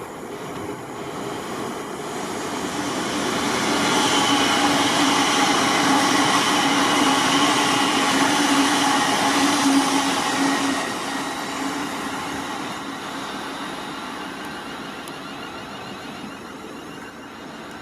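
A train moving through the station. It grows louder over a couple of seconds, stays loud with a steady whine for about six seconds, then fades away.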